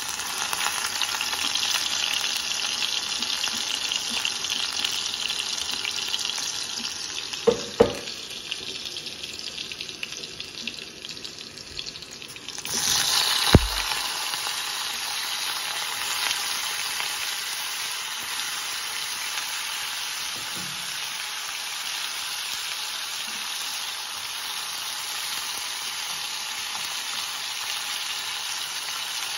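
Hot oil sizzling in a kadai as sliced vegetable pieces fry. There are a couple of sharp knocks about 8 seconds in. The sizzle jumps louder about 13 seconds in as more pieces hit the oil, with a clink just after, then settles into a steady frying sizzle.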